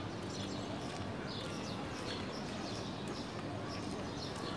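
Small birds chirping over and over, short falling notes a few times a second, over a steady low background rumble.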